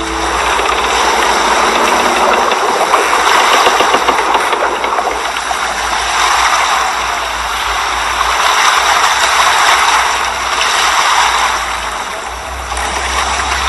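Motorboat under way: the engine runs steadily under a loud rush of water and wind noise that swells and eases every few seconds.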